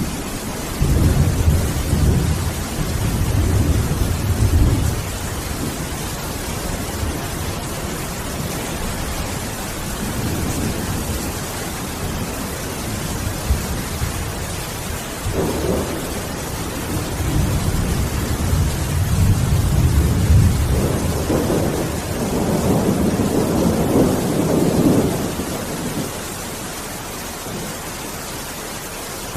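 Steady rain with rolls of thunder: a rumble in the first few seconds and a longer, louder roll through the second half.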